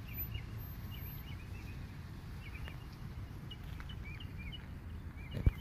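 Small birds chirping in short warbling notes over a steady low rumble, with a couple of sharp knocks near the end.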